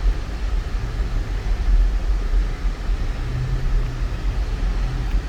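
Steady low rumble of road and engine noise inside the cabin of a 2004 Lexus GX 470 V8 SUV being driven, with a faint low engine hum that swells for a second or so past the middle.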